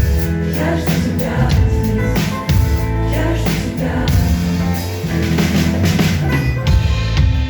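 Live band music with a drum kit keeping a steady beat under bass and sustained instrument notes, with a singing voice.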